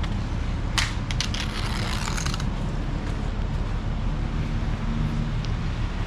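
Steady low street rumble of traffic, with a brief rattling clatter of clicks about a second in.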